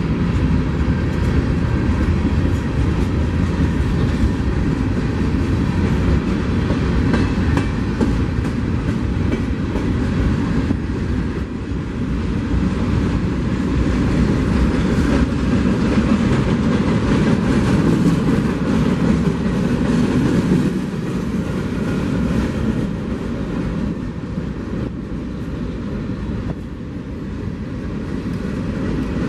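Train cars rolling past on the track: a steady, loud rumble of wheels on rail with faint repeated clicks.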